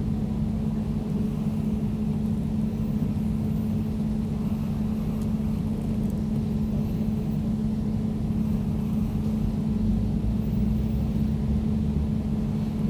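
Air conditioner running steadily: an even low hum with a steady droning tone and a rumble beneath, unchanging throughout.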